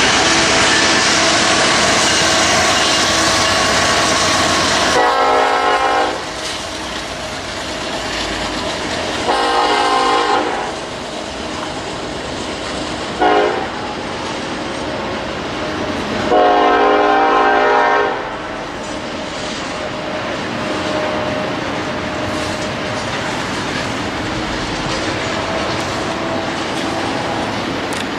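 Freight train passing, its lead locomotive's Nathan K5LLA five-chime air horn sounding the grade-crossing signal: long, long, short, long. The train's rolling rumble and rail clatter run loud underneath.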